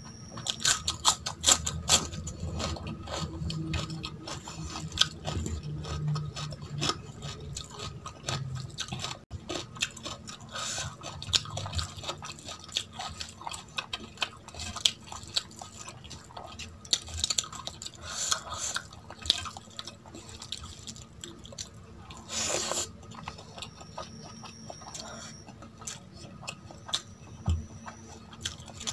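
Close-up chewing, with crisp crunches from bites of raw cucumber in the first couple of seconds. After that comes steady, wet chewing of rice and curry with scattered mouth clicks.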